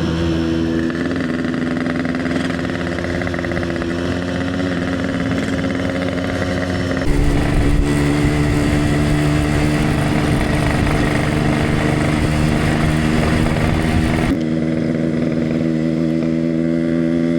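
Yamaha RX-King's single-cylinder two-stroke engine and exhaust running under way at easy, low revs, with a clean exhaust note. About seven seconds in the note drops in pitch and grows louder and fuller, then eases back about three seconds before the end.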